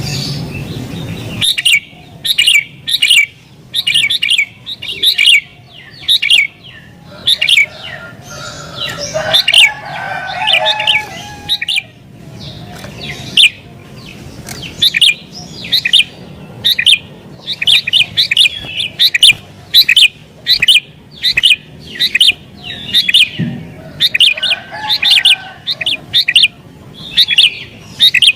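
Sooty-headed bulbul singing vigorously: a fast run of short, loud chirping phrases, a few each second, in the excited, challenging song that bird keepers call gacor.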